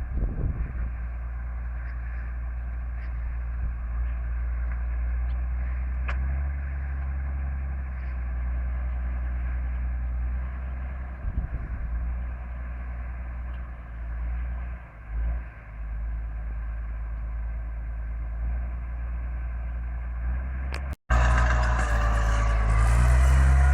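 Mercedes OM366 six-cylinder diesel in a DT-75 crawler tractor running steadily. Near the end there is a brief break, then the engine is louder, with its pitch wavering.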